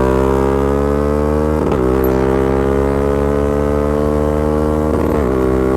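BMW F900R parallel-twin engine running through a Mivv exhaust with no dB killer, under load with the revs climbing slowly. It is broken twice by quick gear changes, about two and five seconds in.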